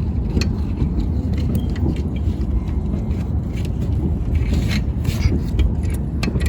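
Nylon seat strap being worked through its buckle and pulled tight, with scraping and a few sharp clicks, over a steady low rumble.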